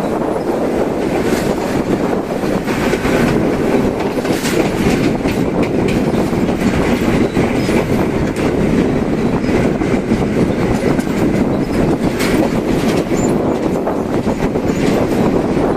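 Train running along the track: a steady, loud rolling noise with the clickety-clack of wheels over rail joints.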